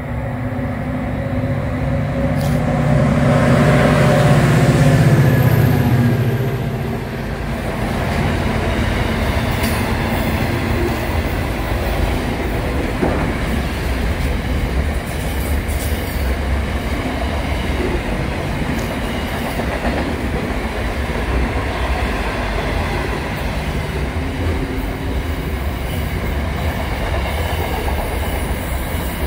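Aurizon diesel freight train passing at speed. The locomotives' engines are loudest a few seconds in, then comes the steady noise of container wagons rolling by on the rails.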